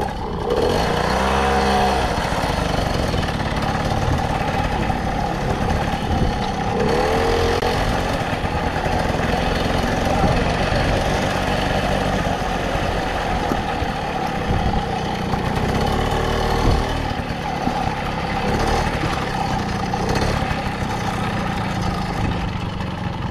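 Small two-stroke moped engine running steadily under way, with its pitch swelling and dipping briefly three times.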